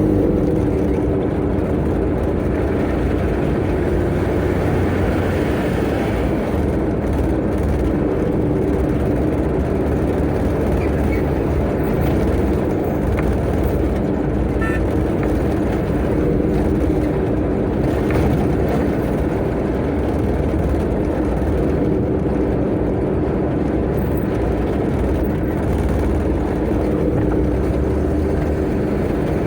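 Tata Ace mini truck driving at speed: a steady engine hum over continuous road and wind noise. The engine's pitched hum fades into the road noise about six seconds in.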